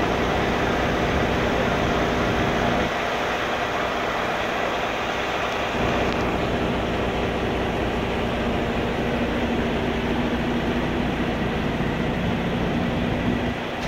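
Truck engine running steadily, its tone shifting slightly about three seconds and again about six seconds in.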